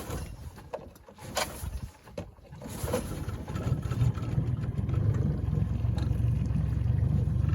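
Outboard motor, freshly primed after seven years out of use, catching after a few knocks and settling into a steady, low, pulsing run from about three seconds in.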